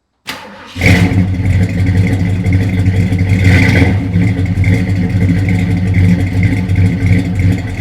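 A car engine running loudly and steadily, coming in abruptly about a second in.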